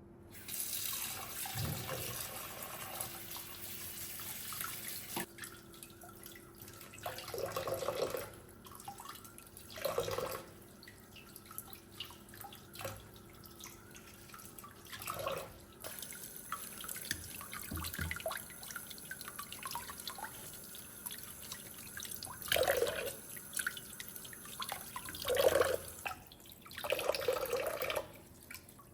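Kitchen tap running into a sink, rinsing fruit and vegetables. The flow runs steadily for about five seconds, then comes in shorter, louder splashes several times, with dripping in between.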